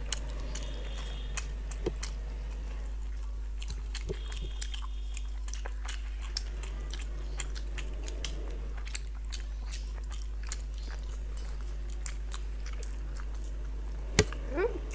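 Close-miked eating sounds: chewing and biting with many small wet mouth clicks, as boiled egg and curried chicken are eaten by hand. One louder sharp knock comes near the end, over a steady low hum.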